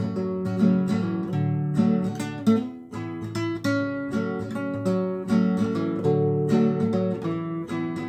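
Acoustic guitar strummed, playing chords through an instrumental passage between sung lines, with a brief lull about three seconds in.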